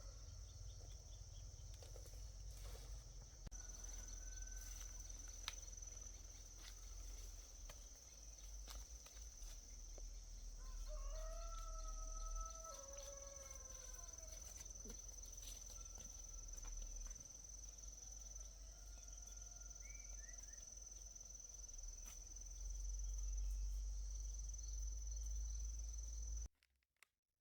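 A rooster crowing once, about eleven seconds in, over a steady high-pitched whine and a low rumble; the sound cuts off abruptly near the end.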